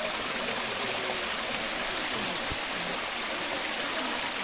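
Mountain stream running over rocks: a steady rush of water.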